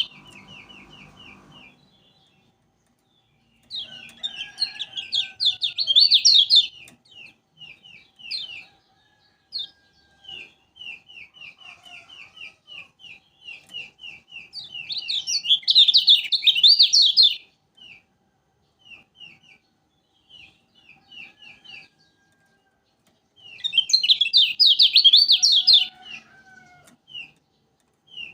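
Lombok kecial kuning, a small yellow white-eye, singing busily: three loud bursts of fast, high chattering trills, with runs of short, evenly repeated chip notes in between.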